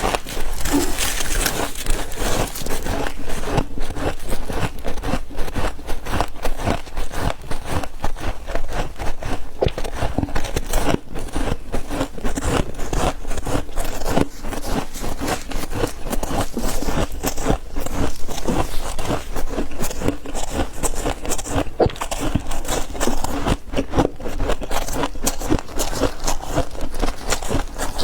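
Close-up chewing of refrozen freezer frost chunks: dense, continuous crunching with rapid cracks and squeaky crunches, one bite after another.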